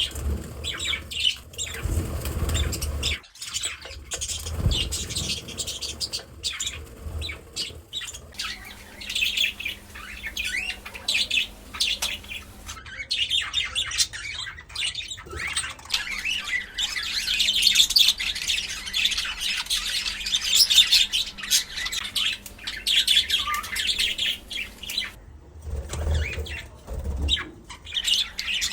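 Pet budgerigar chirping and chattering in rapid, busy warbles, thickest in the middle stretch. There are low bumps in the first few seconds and again near the end.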